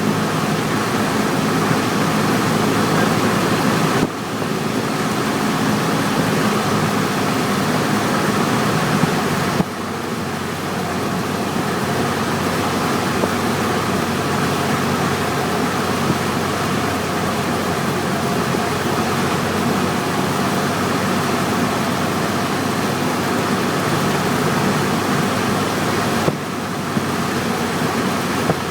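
Cessna 172 engine and propeller droning steadily with rushing airflow, heard from inside the cockpit. The level dips briefly three times.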